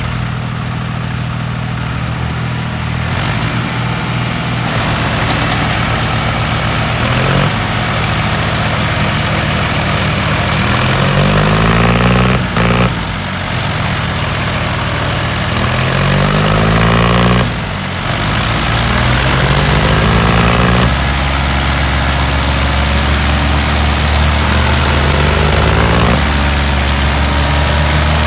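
Tractor diesel engine running steadily, revved up and back down several times in short bursts.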